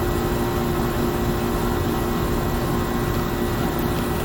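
A steady, unchanging mechanical hum with hiss, carrying a couple of constant low tones.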